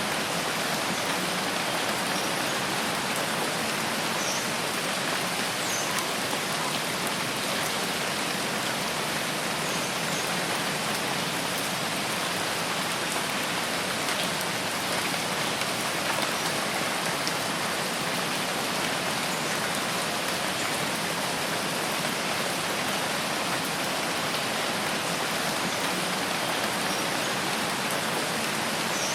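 Steady rain falling, an even, unbroken hiss of drops, with a few faint, short, high chirps now and then.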